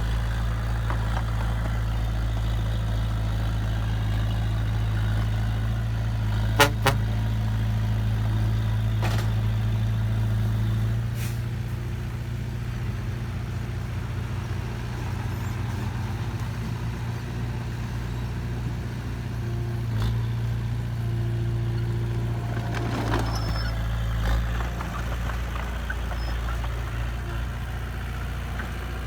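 Heavy diesel engine of an earth-moving machine running steadily, its low rumble shifting a little about a third of the way in. Two sharp metallic clacks come about a quarter of the way in.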